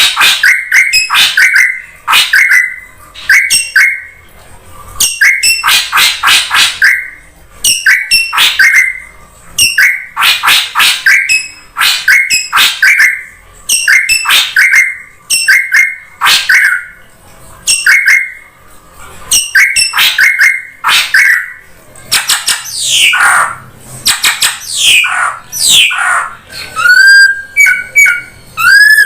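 Drongo calls played as a bird-luring recording. Loud, harsh call bursts repeat about once a second. Later come several long falling whistled sweeps, and near the end a run of short rising notes.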